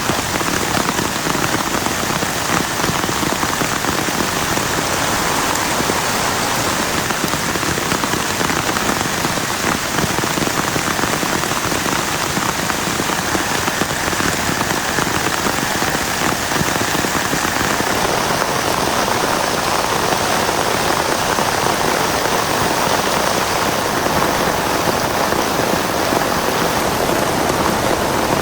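Heavy rain falling steadily: a dense, even wash of countless drop impacts.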